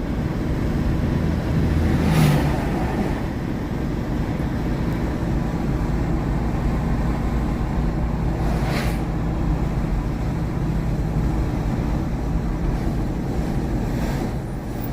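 Steady engine and road noise of a car heard from inside the cabin while driving, with a low hum throughout. Brief swells of noise come about two seconds in and again about nine seconds in.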